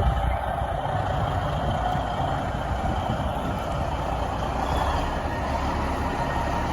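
Diesel engine of a Peterbilt 10-wheeler water truck running steadily.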